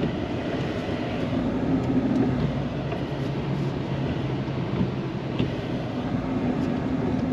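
Plow truck's engine running at a steady pitch, a continuous low hum under even mechanical noise.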